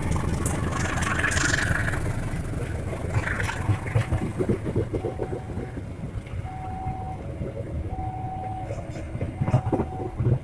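Locomotive-hauled KAI passenger coaches rolling past as the train pulls out, with a steady rumble and wheels clacking over the rail joints, slowly fading. A short high tone repeats about every second and a half from the middle on.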